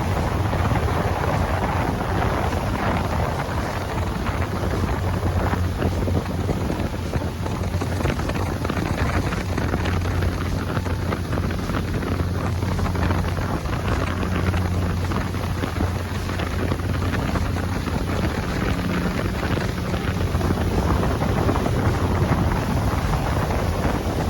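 Small ferry boat under way: its engine drones in a steady low hum beneath a constant rush of wind buffeting the microphone and water.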